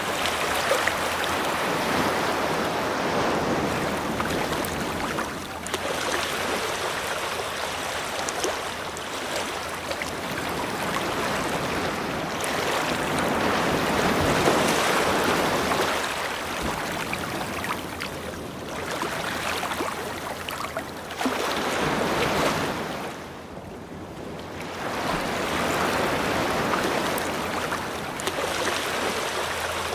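Ocean waves breaking and washing up a beach, the surf swelling and falling away every several seconds, with a brief lull near the end.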